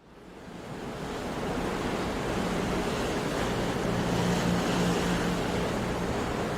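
Sea surf, waves washing on a shore in a steady hiss, fading in from silence over the first second or so.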